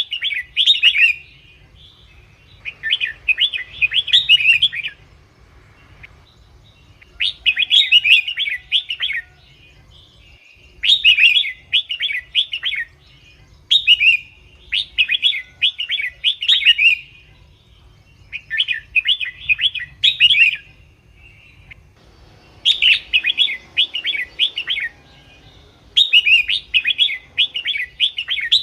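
Red-whiskered bulbul singing: about nine short, quick, chirpy warbled phrases, each one to two seconds long, separated by pauses of a second or two.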